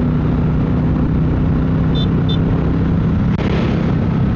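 Triumph Bonneville Bobber's 1200 cc parallel-twin engine running at a steady cruise under wind rush, its note holding steady. Two short high beeps about two seconds in.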